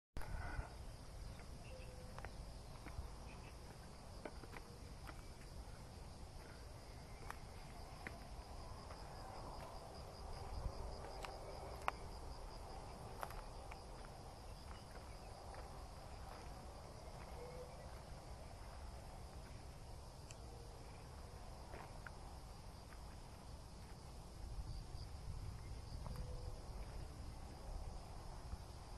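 Forest insects chirring steadily in a high, finely pulsing drone, over a low rumble, with scattered faint clicks.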